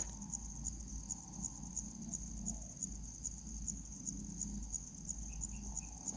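Steady high-pitched insect trilling, cricket-like, pulsing evenly several times a second. Three faint short peeps come near the end.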